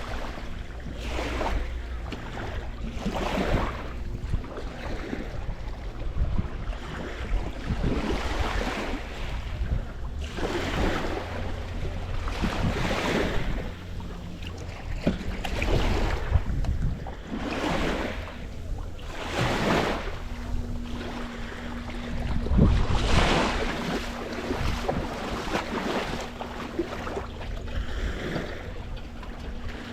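Small waves washing in repeatedly, one wash every couple of seconds, over a steady low rumble of wind on the microphone.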